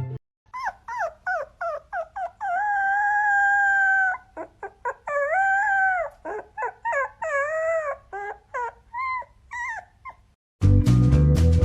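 A dog howls and yelps: a run of quick short yips, then two long held howls, then more short yelps that fade out. Music cuts in near the end.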